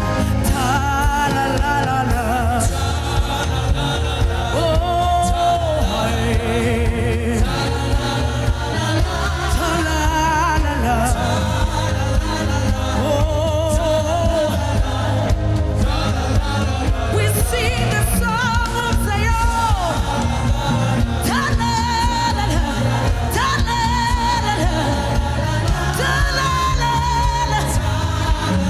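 Gospel worship music: a singing voice holding long, wavering notes over a steady keyboard-and-bass backing.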